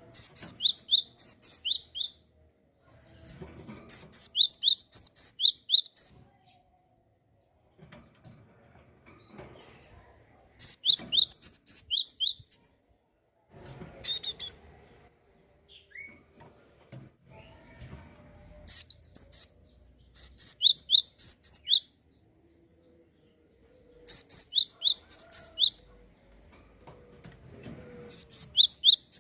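A gelatik bird singing loud phrases of about two seconds each: a quick run of about eight sharply falling, high whistled notes. The phrases repeat every few seconds with short silent gaps, and there is one brief burst about halfway through.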